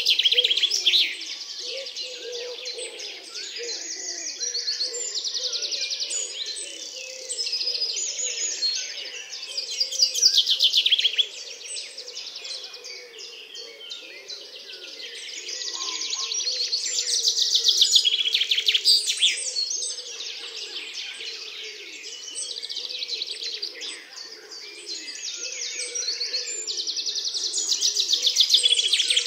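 Woodland birds singing: rapid trilled phrases that swell and fade every few seconds, with a faint low hum underneath.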